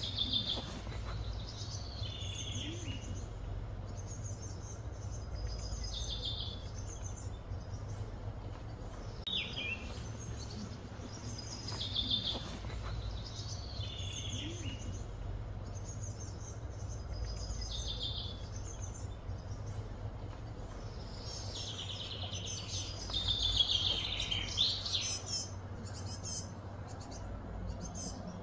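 A songbird singing outdoors, repeating a short high phrase of quick falling chirps every two or three seconds, with a busier run of notes near the end, over a steady low background rumble.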